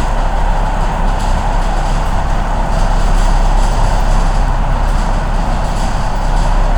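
Steady running noise of a moving train heard from on board: a constant rumble with faint clicks over it.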